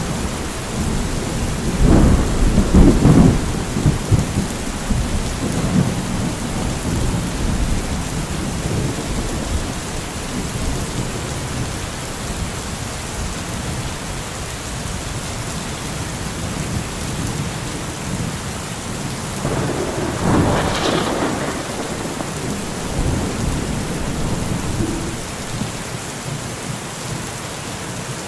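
Steady rain with thunder rumbling, loudest about two seconds in and again near the middle.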